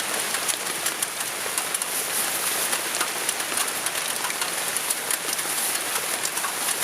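Steady rain falling, with many small, irregular drop ticks.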